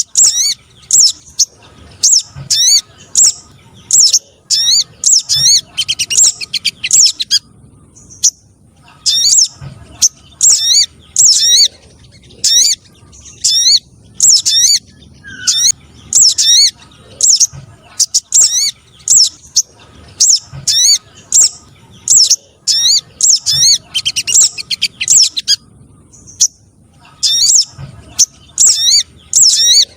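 Bird-lure recording of sogon trotol calls: rapid bouts of short, high, downward-sweeping chirps, broken by brief pauses.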